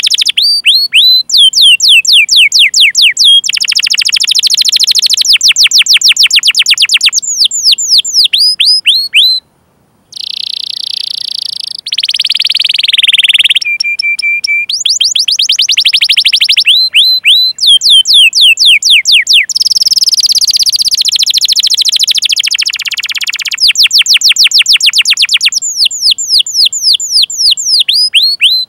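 Domestic canary singing: long rapid rolls of repeated downward-sweeping chirps ('cuit cuit'), broken by a short pause, a buzzy trill and a brief steady whistled note.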